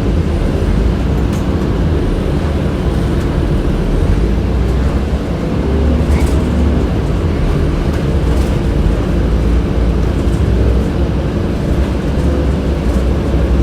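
Inside a 2007 Orion VII city bus under way: the HVAC system runs with a steady hum over the low rumble of the engine and road.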